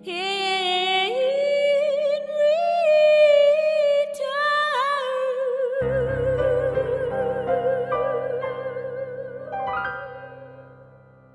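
A woman singing a long closing note with wide vibrato over soft piano, her voice stepping up in pitch about a second in and then held. Low piano and bass notes come in about six seconds in, and the voice and accompaniment fade out near the end.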